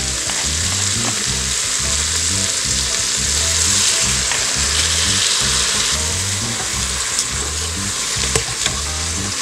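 Onions, jalapeños and smoked turkey tails sizzling steadily in the hot oiled inner pot of an electric pressure cooker on sauté. A splash of vinegar is poured in, then a spoon stirs through the pot.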